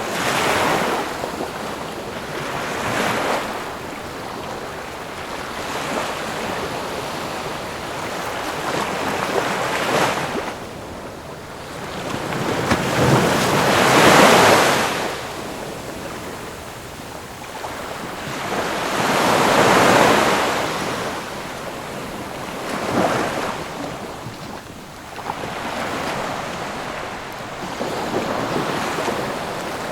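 Ocean waves breaking on a shore in repeated surges every few seconds, the two largest about halfway through, with a steady wash of surf between them.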